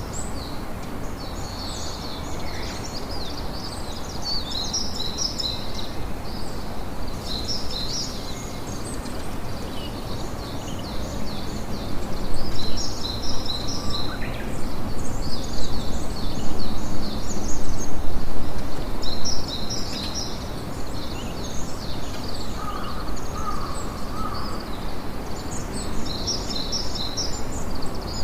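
Campfire crackling steadily under small birds chirping in quick bursts, a little louder in the middle stretch.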